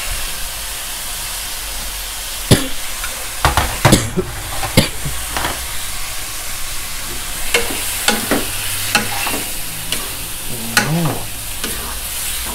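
Prawns and squid sizzling steadily in a hot stone-coated wok. From about two and a half seconds in, irregular knocks and scrapes come from the pan as the seafood is stirred with a wooden spatula.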